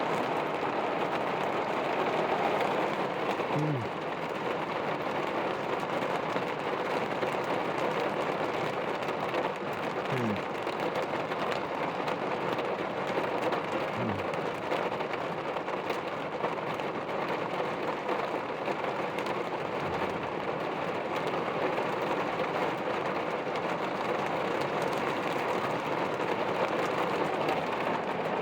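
Heavy rain pouring steadily in a thunderstorm.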